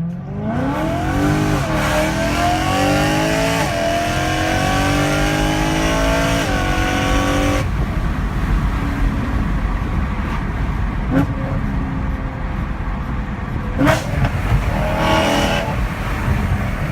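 BMW M3 E92's 4.0-litre V8 with an HMS exhaust accelerating hard, its pitch climbing through several gears with a short dip at each shift, then backing off after about eight seconds with a few sharp cracks from the exhaust.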